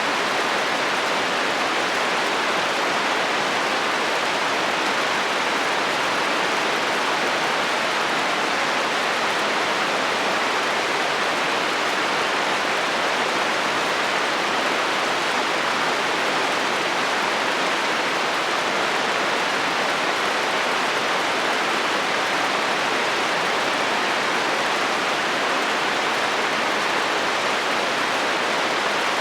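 Heavy rain falling on a metal roof, a steady, even hiss that does not change; no thunder is heard.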